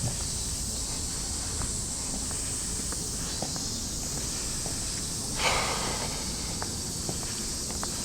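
Outdoor ambience while walking, with light footsteps over a steady high-pitched insect drone. A short hissing burst comes about five and a half seconds in and is the loudest thing.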